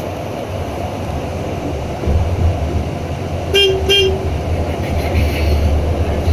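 Steady low running noise of a Scania bus on the road, growing louder about two seconds in, with two short horn toots in quick succession a little past the middle.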